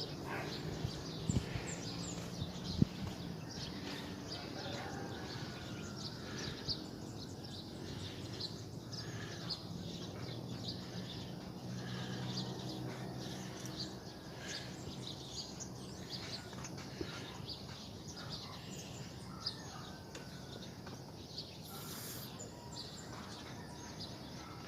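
Outdoor morning ambience of small birds chirping, short high calls scattered throughout, over a low steady hum.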